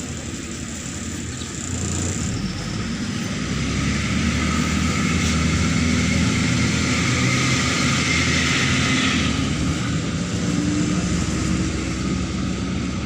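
Neman city bus's diesel engine pulling away and accelerating, heard from inside the cabin, growing louder about two seconds in. A higher hissing noise rides over the engine and stops about nine seconds in, after which the engine drones on more steadily.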